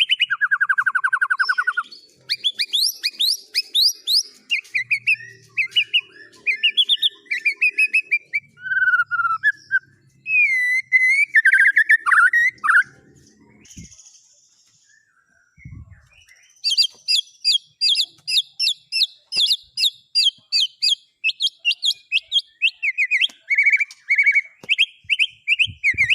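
Songbird singing a fast, varied song of whistles and trills, pausing briefly in the middle. After the pause it breaks into a long run of quick repeated rising notes, about four a second.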